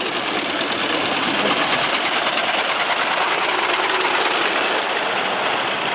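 An old car's engine running at idle with a fast, even mechanical ticking.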